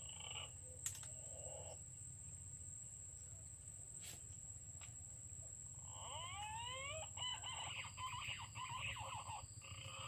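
Birds calling: a rapid run of rising whistled notes starting about six seconds in, over a steady high-pitched whine, with a sharp click about a second in.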